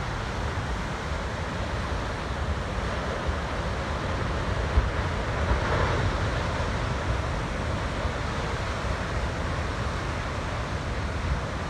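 Ocean surf rolling and breaking, under heavy wind buffeting the microphone. The surf swells louder about halfway through as a wave breaks.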